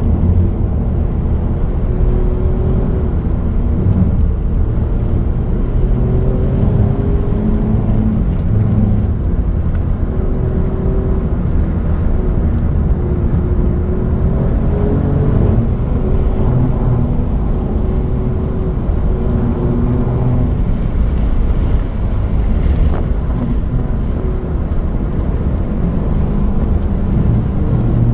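Alfa Romeo Giulia Quadrifoglio's twin-turbo V6 and road noise heard inside the cabin at speed: a steady low rumble, with the engine note rising and falling as the throttle changes.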